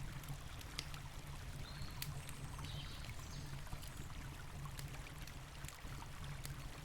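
Wood campfire crackling, with irregular sharp pops, over the steady rush of a river.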